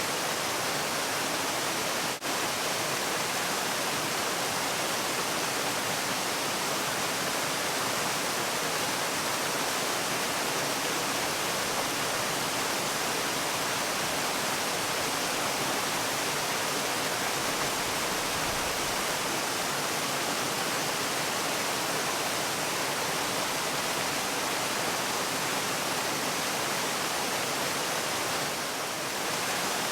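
Waterfall's steady rush of falling water, an even hiss with a brief dip about two seconds in.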